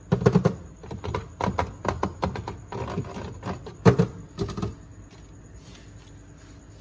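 Drink containers being knocked and set down on fridge shelves during restocking: a quick, irregular run of knocks and clinks, with one sharper knock about four seconds in, stopping after about five seconds.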